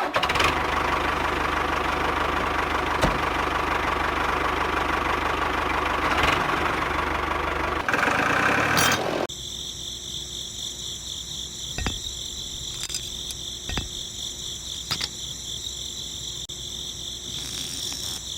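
A small motor running with a steady mechanical rattle for about the first nine seconds, getting louder and hissier just before it stops. It is followed by a quieter bed of steady high-pitched chirring with a few sharp clicks.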